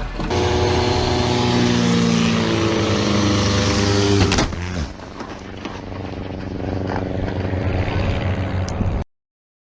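A car engine running loud, its pitch stepping up and down. A sudden sharp knock comes about four and a half seconds in, then quieter road noise, and the sound cuts to silence near the end.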